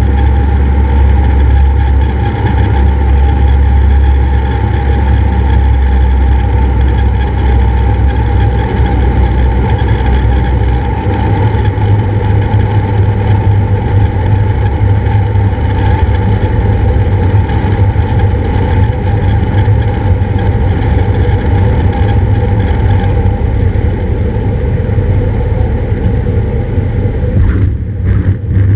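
Cessna 172's piston engine and propeller droning steadily, heard from the cockpit, with a slight rise in pitch about eleven seconds in and a brief dip near the end.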